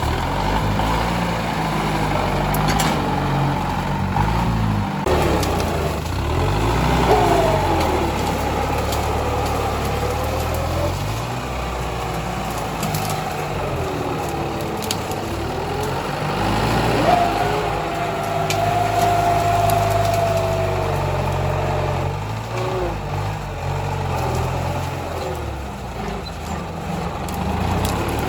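Tractor engine working under load, its pitch rising and falling as it clears brush. Clicks sound now and then, and a long high squeal comes in after about seventeen seconds.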